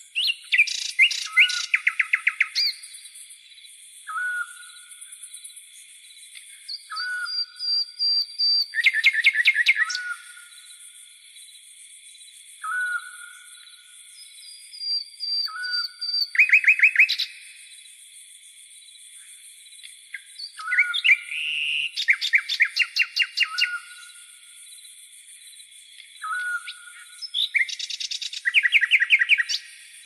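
Birds singing over a steady chorus of crickets: a short whistled note repeats every two to three seconds, and bursts of rapid trilled notes come about every six seconds.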